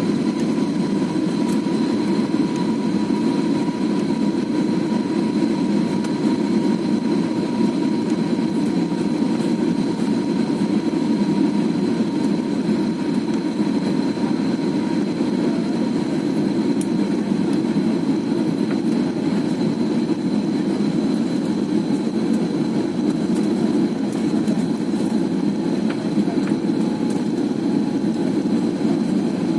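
Steady engine and rushing-air noise inside an aeroplane's passenger cabin in flight, with two faint high whines held over it, the lower one sinking slightly.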